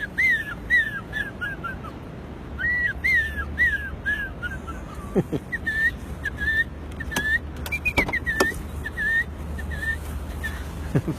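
A man mimicking birdsong by whistling with his mouth: runs of short, quick chirps, two to three a second. Some runs step down in pitch, and a few brief downward swoops are mixed in.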